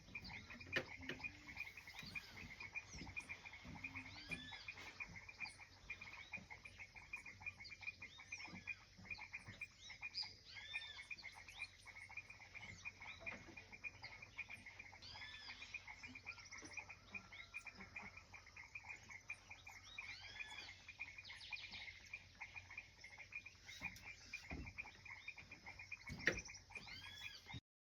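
A chorus of calling animals: a steady, rapid pulsing trill with many short arching chirps scattered over it. There is a single sharp knock near the end.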